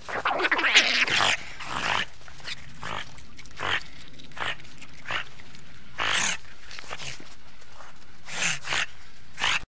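A group of otters calling in a series of short, sharp high chirps and squeals, a dense cluster near the start and then single calls every half second to a second.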